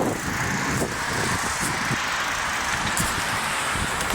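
Steady rushing wind and road noise from a moving bicycle, with low gusty buffeting of wind on the microphone.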